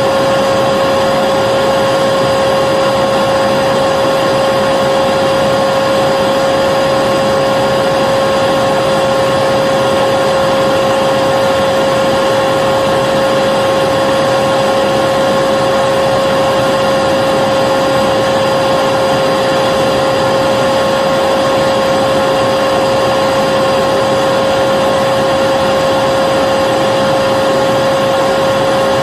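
Vacuum cleaner running steadily, a constant whooshing hiss with a steady motor whine on top and no change in pitch or level.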